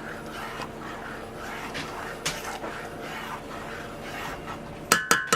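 A steady low hum with faint handling noise, then near the end two sharp clinks that ring briefly, like dishes or glass being knocked together.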